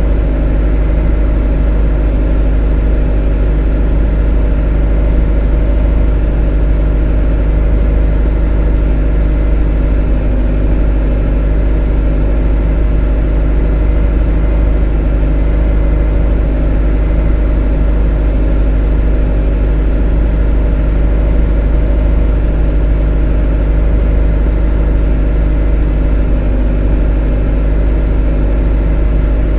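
A motor running at one steady speed: a deep, even drone that holds the same pitch and level throughout.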